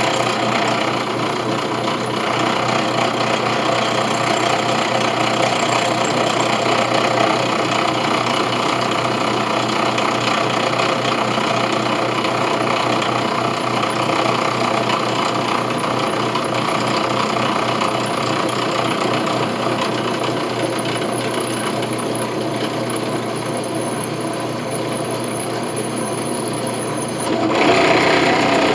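Electric drill running steadily as it bores into a brass coin, with a faint high whine over it. Near the end the whine stops and the sound briefly gets louder.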